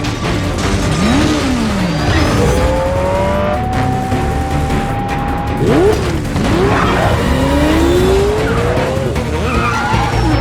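Movie car-chase mix: car engines revving up and down and tyres squealing, over an orchestral-style film score.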